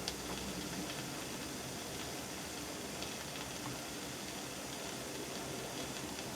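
An egg frying in oil in a pan on the stove, a steady sizzling hiss.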